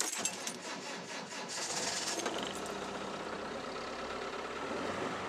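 Land Rover engine cranking over on the starter in the cold, catching after about a second and a half and settling into a steady idle: a cold start in freezing weather.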